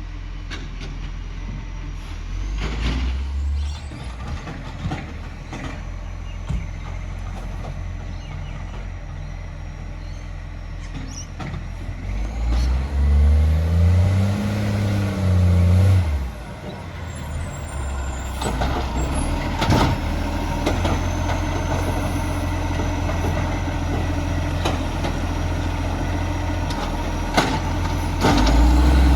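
Recycling garbage truck's diesel engine running steadily. About halfway through it revs up and settles back down, with a few short sharp knocks and hisses along the way.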